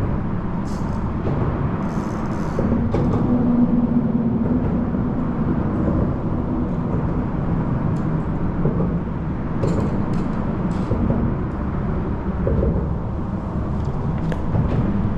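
Road traffic on the bridge: a steady low rumble of passing vehicles, with a few light clicks scattered through it.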